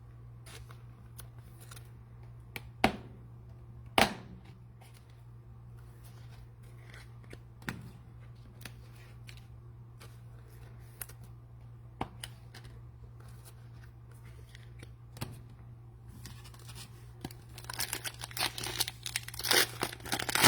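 Scattered sharp clicks and taps of trading cards being handled, then, near the end, the dense crinkling tear of a plastic cellophane card pack being ripped open.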